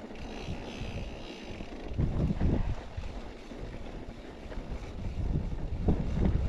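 Wind buffeting the microphone while riding a mountain bike, a low rumble that swells in gusts about two seconds in and again near the end.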